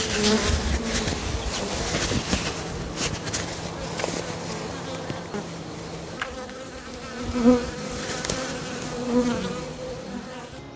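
Honey bees buzzing in a steady hum, with brief louder swells as single bees fly close past, about seven and a half and nine seconds in.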